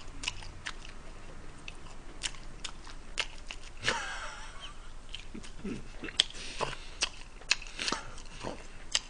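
Close-up chewing of thin-crust pizza: a string of wet mouth clicks and smacks, with a short breathy laugh about four seconds in.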